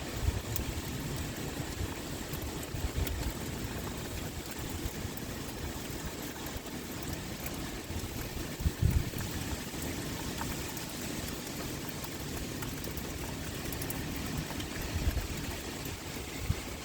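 Steady rain pouring, with brief low rumbles of wind gusting every few seconds, the strongest about nine seconds in.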